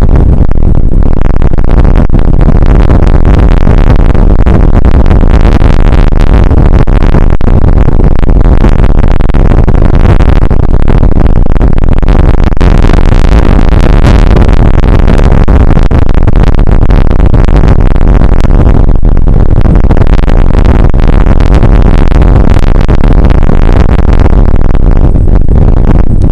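Rain shower and wind hitting an outdoor weather camera's microphone: a constant, deep, distorted noise at full loudness.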